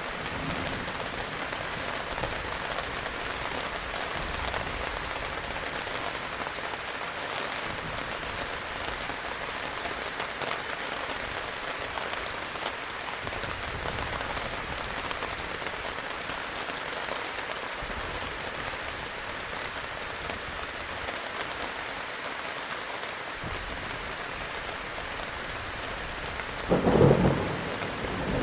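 Heavy rain falling steadily. Near the end, a short, loud clap of thunder breaks over it.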